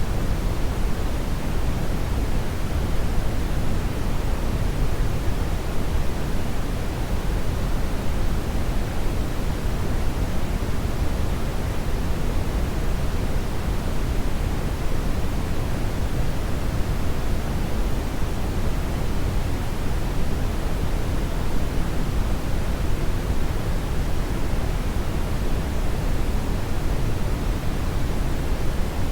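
Hair dryer running steadily: an even, unbroken rush of air, deepest at the low end, with no change in pitch or level.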